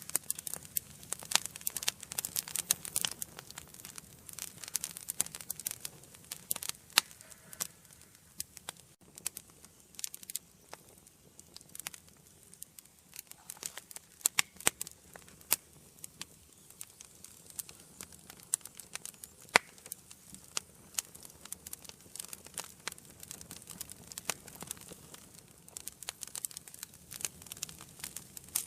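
Wood fire burning in an indoor fireplace: irregular sharp crackles and pops over a faint steady hiss.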